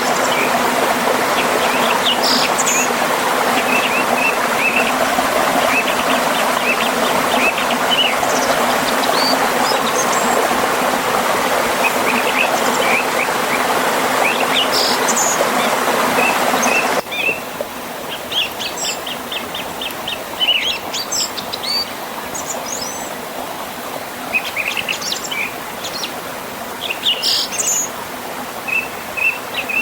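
Rushing water of a river and small waterfall with songbirds chirping and trilling over it. About 17 seconds in the water noise drops abruptly to a quieter level, leaving the bird song more prominent.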